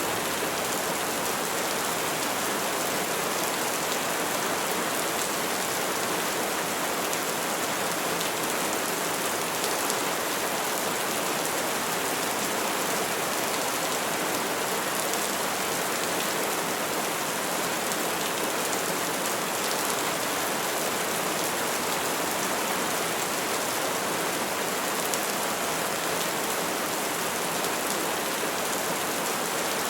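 Steady rain falling on trees and foliage, an even, unbroken hiss of drops with no thunder.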